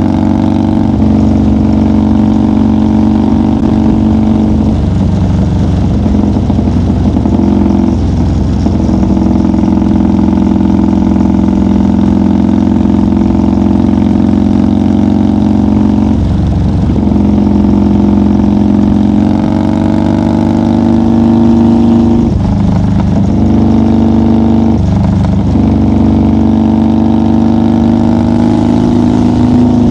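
1990 Harley-Davidson FXR's Evolution V-twin engine and exhaust running steadily at highway cruising speed. The engine note breaks and changes pitch briefly several times, as the throttle is rolled off or the rider shifts gears.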